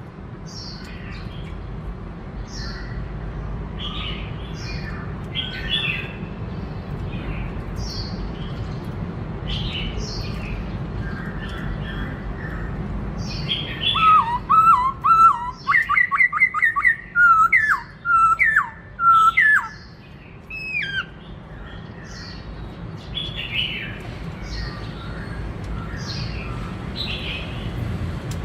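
Black-throated laughingthrush singing: scattered short, high calls, then about halfway through a loud run of rapid whistled phrases lasting several seconds, over a steady low hum.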